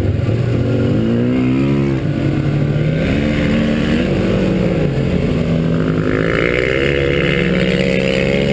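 Motorcycle engine revving as it accelerates: its pitch climbs, drops sharply about two seconds in, then rises and falls repeatedly.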